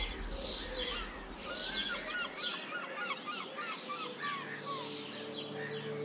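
Birds chirping and singing, with a quick series of short falling whistled notes in the middle. Soft ambient music tones swell in near the end.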